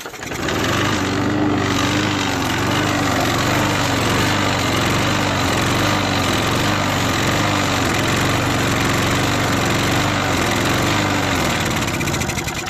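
Push lawnmower engine, air filter off, catching just after the start and running with its speed rising and falling in a steady wavering, then starting to die away near the end. It is running on WD-40 left in the carburettor bowl, not on the CRC sprayed in, and cuts out when that runs out.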